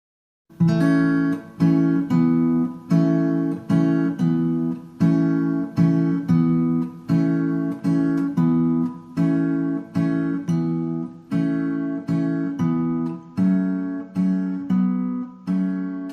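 Music: an acoustic guitar strumming chords in a steady rhythm, about two strokes a second, starting about half a second in.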